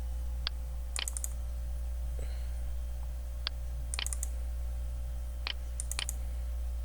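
Computer keys clicking in short scattered groups, a single click followed by a quick cluster of two or three, several times over, with a steady low electrical hum underneath.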